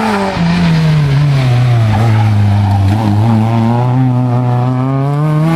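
Peugeot 206 rally car's engine at speed through a bend: the note drops in the first second, holds low, then climbs steadily over the last couple of seconds as the car accelerates away.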